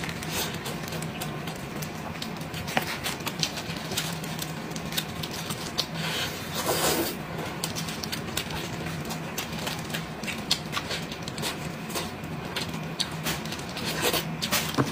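Close-miked chewing and wet mouth sounds of someone eating braised sheep's head meat: many short sharp clicks and smacks, with a louder, longer mouth sound about seven seconds in and another flurry near the end. A steady low hum runs underneath.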